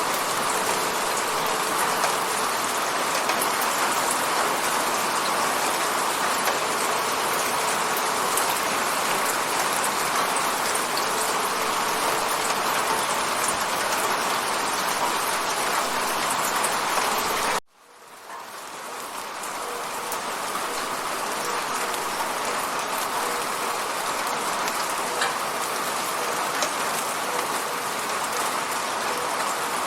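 Steady rain pattering on a window pane. About two-thirds of the way in, it cuts out suddenly, then fades back up over a couple of seconds.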